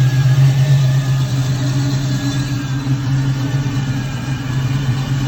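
A 1970 Camaro's LS3 6.2-litre V8 idling, loud and steady.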